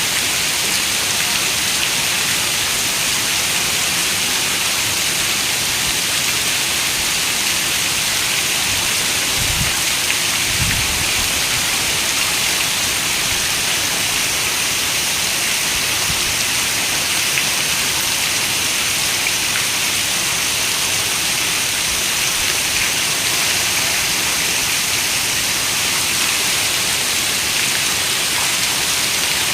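Steady rain falling, an even hiss that holds level throughout, with two brief low thuds about ten seconds in.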